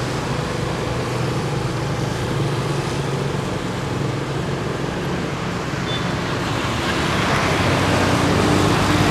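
Motor vehicles running with a steady low engine hum over a continuous noise, which grows a little louder over the last two seconds.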